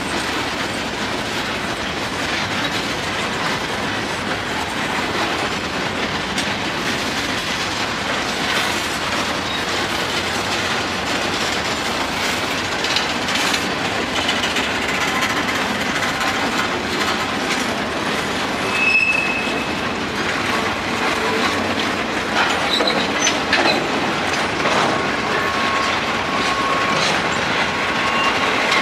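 Boxcars of a CSX manifest freight train rolling past: steady rumble and clatter of steel wheels on the rails, with a short high wheel squeal about two-thirds of the way in and a thinner squeal coming and going near the end.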